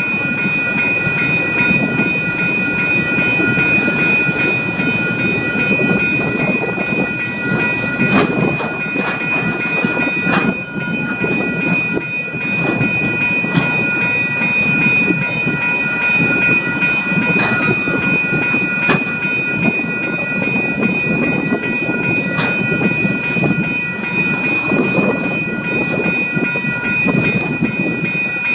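Steady mechanical running noise with a low rumble and a constant high whine of several tones, broken by a few sharp clicks.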